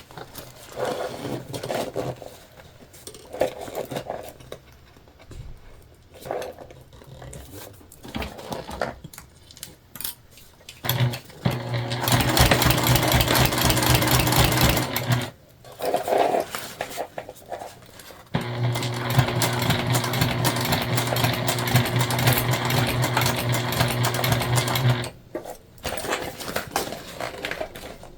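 Sewing machine stitching bias tape binding onto a vinyl bag, running in two steady stretches: one of about four seconds starting a third of the way in, then a longer one of about seven seconds, with the fabric handled quietly between and before.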